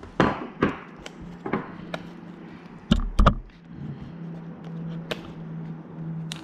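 Plastic wrap on a boxed iPad being cut and torn open with a knife: a few short ripping swishes, then two sharp knocks a little before halfway. A low steady hum runs through the second half.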